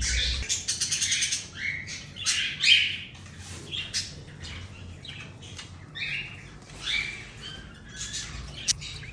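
Many exotic aviary birds chirping and squawking over one another in a constant chatter of short, overlapping calls, loudest a little under three seconds in. A sharp click near the end.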